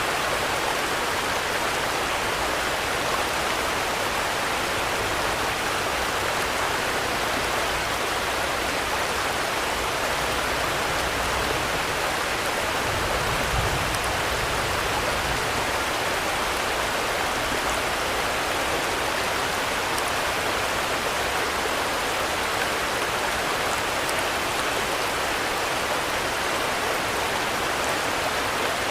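Steady rainfall, an even hiss of countless drops with no single drips standing out; a brief low rumble swells about halfway through.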